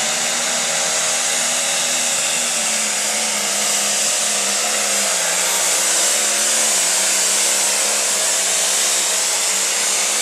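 A light pro stock pulling tractor's turbocharged diesel engine running flat out under load during a pull, its pitch held steady with a slight dip midway, over a loud high hiss.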